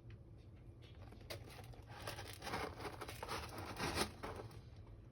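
Soft rustling and scratching noises that build from about a second in and are loudest near four seconds, over a low steady hum.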